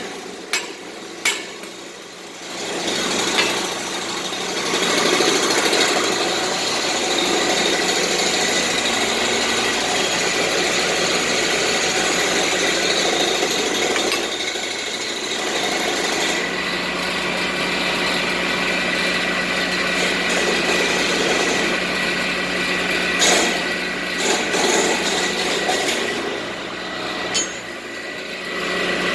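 A power tool running steadily on metal, with a few sharp knocks near the start and a few more about three-quarters of the way through.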